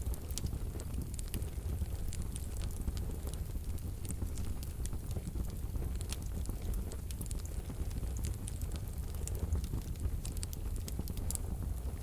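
Fire burning in a fireplace stove, softly crackling: scattered small pops and snaps over a low, steady rumble.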